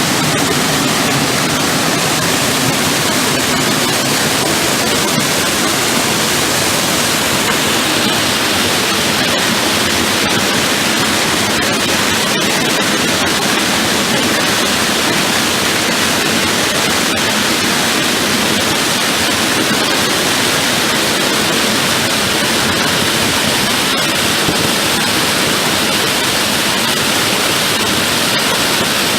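Waterfall's steady rush of falling water, a loud, even, unbroken noise.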